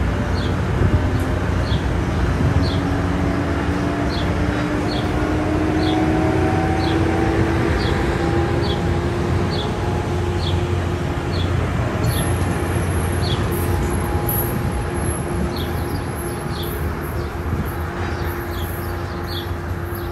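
Tri-Rail commuter train pulling away: a steady low rumble from the diesel locomotive and rolling bilevel cars, with an engine tone that rises slowly in pitch as the train accelerates. A short high tick repeats about twice a second.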